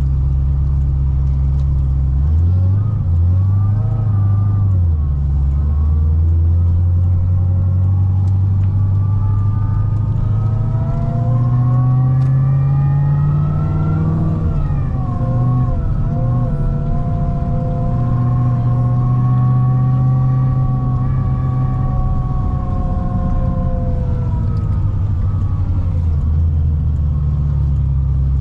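Supercharged V8 of a C6 Corvette ZR1 with a Kong 2650 supercharger, driving on the highway. A low engine drone gives way to a long, gradual pull: the revs and a high supercharger whine climb together, dip briefly about halfway, hold high for several seconds, then ease back to the low drone near the end.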